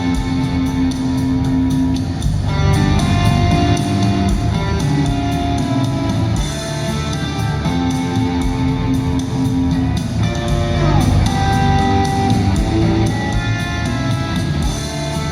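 Rock band playing live, an instrumental passage without vocals led by guitars over bass and drums, with a falling glide in pitch about ten seconds in.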